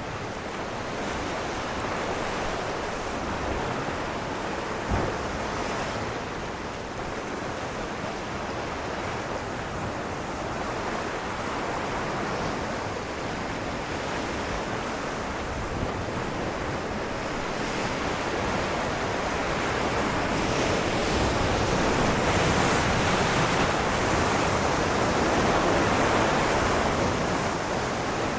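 Ocean waves breaking on rocks, a continuous surf wash that swells louder in the second half. A brief knock sounds about five seconds in.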